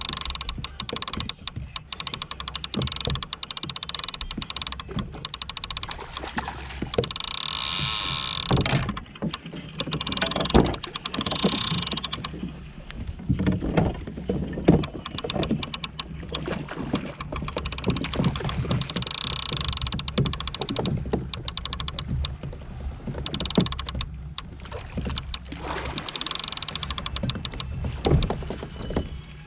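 Wind gusting over the microphone and water moving against a fishing kayak, with many short clicks and knocks of tackle and hull while fish are being fought.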